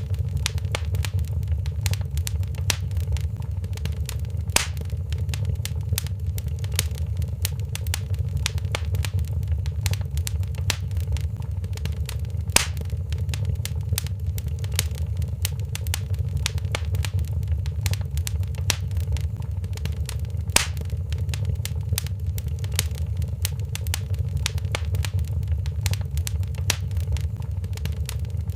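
Wood fire in a fireplace crackling, with many small snaps and pops over a low steady rumble. Three sharper pops stand out, evenly spaced, about 4½, 12½ and 20½ seconds in.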